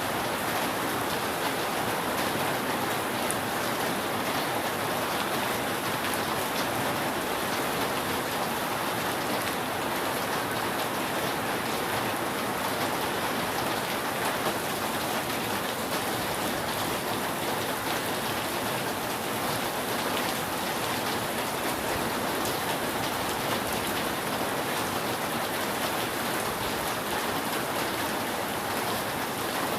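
Steady heavy rain falling on a roof, a dense even hiss of drops with fine scattered patters.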